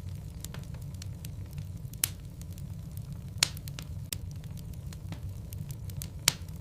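Wood logs burning in a fireplace: a steady low rumble with scattered crackles, three of them sharp pops.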